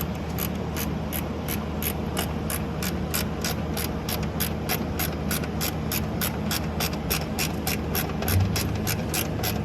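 Hand ratchet wrench clicking steadily, about four clicks a second, as a bolt or nut is run in on the new upper control arm, over a steady low hum.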